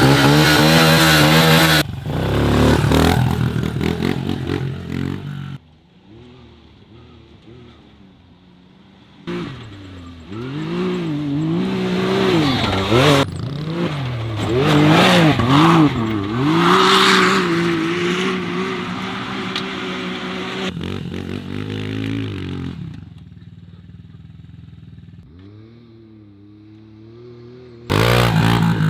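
A pit bike and a Can-Am side-by-side racing on a dirt track, their engines revving up and falling back again and again across several quick cuts. Loud rushing riding noise at the start and again near the end.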